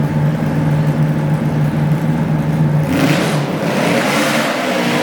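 Modified pulling garden tractor engine running at a steady pitch, then about three seconds in it revs up and turns louder and harsher.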